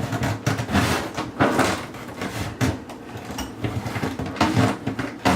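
Irregular knocks, clunks and rattles of garbage-disposal mounting parts and tools being handled and fitted inside the cabinet under a kitchen sink.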